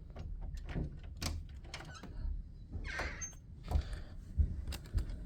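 Irregular knocks and thuds over a low rumble, which the boy puts down to construction work outside; the sharpest knock comes about four and a half seconds in.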